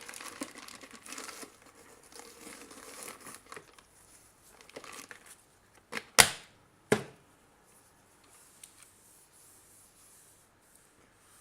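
Small objects being handled on a workbench: a few seconds of rustling and scraping, then two sharp clacks less than a second apart.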